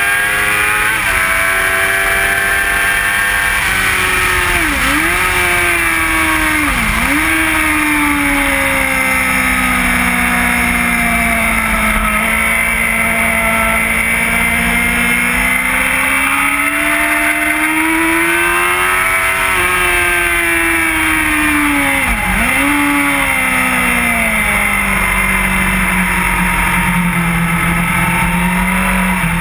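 Inline-four sportbike engine at high revs on track, heard onboard: its pitch swells and sags with the throttle through the corners and dips sharply and recovers three times as gears change. Steady rush of air runs underneath.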